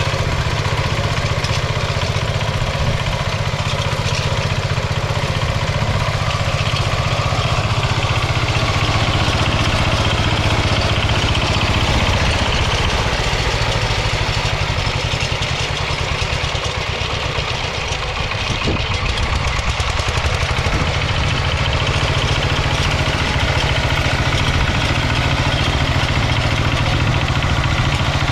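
Kentavr MB 1010DE-6 walk-behind tractor's single-cylinder diesel engine running steadily under load while digging potatoes, easing briefly about two-thirds of the way through.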